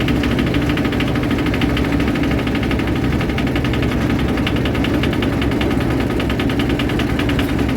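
Single-cylinder Hatz diesel engine in a garden tractor running steadily at idle, with a fast, even diesel clatter, shortly after a quick start.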